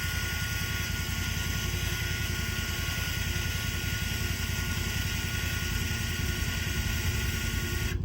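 Tractor engine running steadily, a low pulsing rumble, with a steady hiss over it that stops abruptly at the very end.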